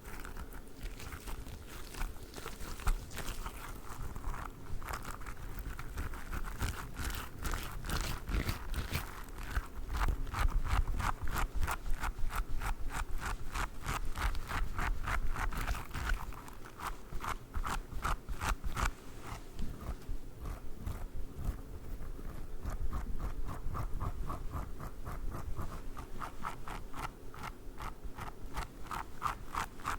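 A squishy durian toy, a soft spiky squeeze toy, being squeezed and worked by hand close to the microphone, giving a fast, continuous run of crackly clicks and scrapes.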